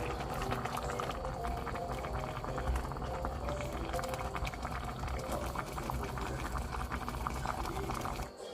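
A pot of kimchi stew boiling hard, a dense crackling bubble that stops abruptly near the end, with soft background music over it.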